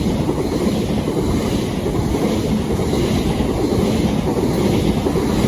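Electric multiple-unit passenger train running past close by, a steady loud noise of wheels on the rails.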